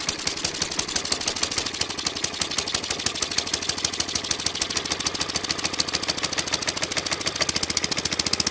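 Tecumseh 5 horsepower small engine running just after a cold start in freezing weather, with a rapid, even firing beat as it warms up; its carburettor has been icing.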